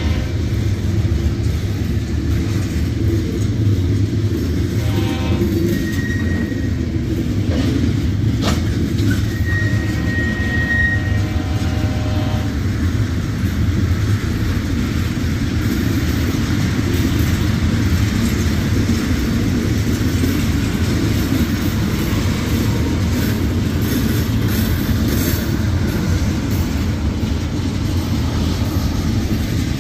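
Freight cars of a CSX manifest train, boxcars and tank cars, rolling past: a steady rumble of steel wheels on rail. Brief high wheel squeals come about six and ten seconds in.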